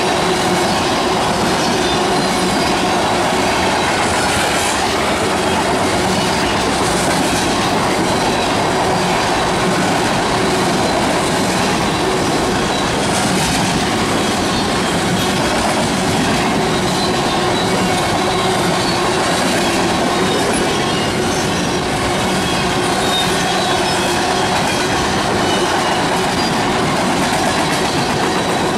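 Railroad tank cars of a freight train rolling past close by: steady noise of steel wheels on rail with clacking from the trucks, and a faint high wheel squeal.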